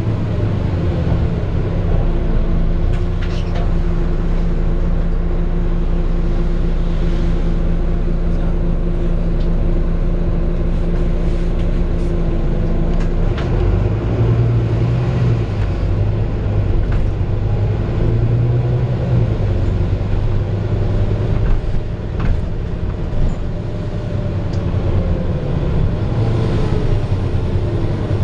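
Volvo B9TL double-decker bus heard on board while driving: its six-cylinder diesel and drivetrain run with a steady low hum whose pitch and level shift several times as the bus changes speed. Occasional short knocks and rattles from the body.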